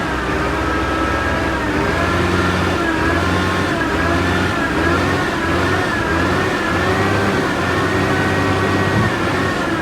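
Diesel engine of a HOWO 6x4 dump truck running steadily (a Weichai WD615.47 inline-six), its revs wavering slightly.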